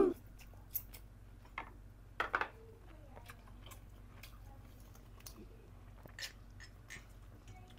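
A person chewing boiled chicken meat close to the microphone: scattered soft clicks and smacks, with a louder few a little over two seconds in.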